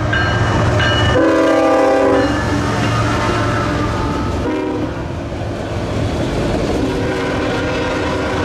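CSX freight locomotive passing close with its horn sounding a series of blasts, one long blast about a second in and more near the end, over the steady rumble of the diesel and the autorack cars rolling by, wheels clacking on the rails.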